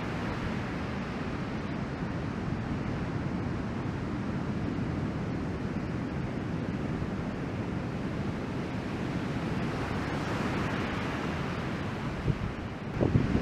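Ocean surf from a typhoon swell, a steady rush of breaking waves, with wind buffeting the microphone; the wind gets gustier near the end.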